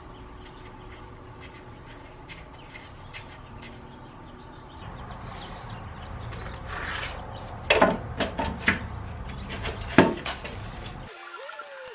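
Metal parts of a small engine being handled, a few sharp knocks and clatters over a low steady rumble, the loudest about ten seconds in.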